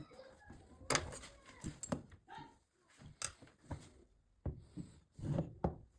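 A run of sharp knocks and clicks at irregular intervals, several close together near the end, from hard parts being handled and set down during the repair of a rotary hammer.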